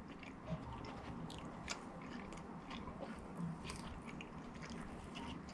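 A person chewing, with soft, wet clicks and smacks, on a mouthful of sandwich bun dipped in ranch dressing, picked up close to the microphone.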